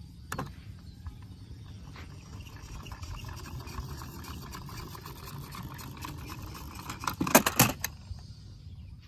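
Plastic toy vehicles being handled: a steady low rumble with scattered clicks, and a short burst of loud clattering about three-quarters of the way through.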